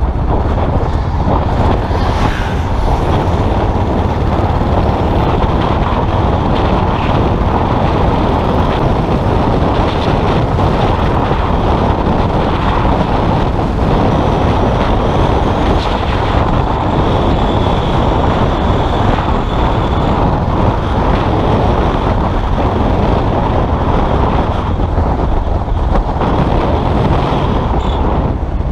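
Custom motorcycle engine running steadily under way, with wind rushing over the microphone.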